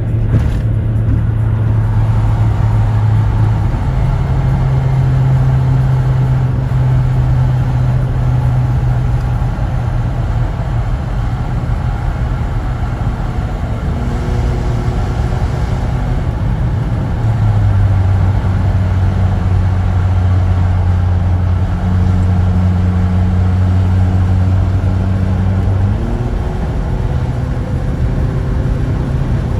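Exhaust of a Toyota Estima 50-series 2.4 with its 2AZ-FE inline-four running steadily at low speed. Its low note steps slightly up and down in pitch a few times, with a brief rise about 26 seconds in.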